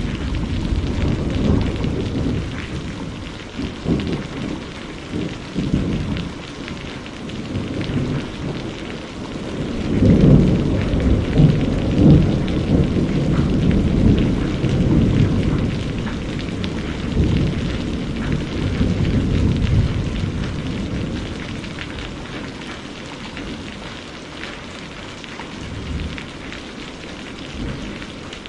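Steady rain with low rolling thunder. The rumble swells about ten seconds in and slowly dies away toward the end.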